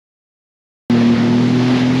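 Silence, then a little under a second in a jet ski's engine cuts in abruptly, running steadily at an even pitch over a broad rushing hiss.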